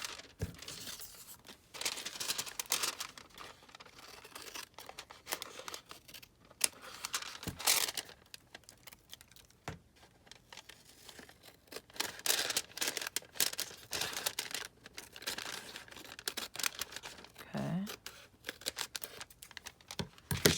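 Scissors snipping around a paper envelope flap in short irregular cuts, with the paper crinkling and rustling as it is handled.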